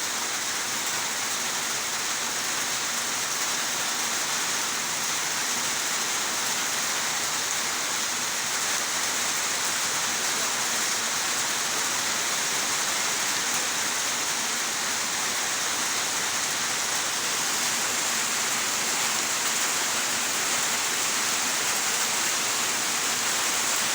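Steady rainfall, a continuous even hiss of rain.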